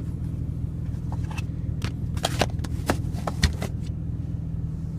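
The 2015 Porsche Cayman GTS's flat-six engine idling steadily, heard inside the cabin. Over it come a series of light clicks and taps from interior trim being handled, the sharpest about three and a half seconds in.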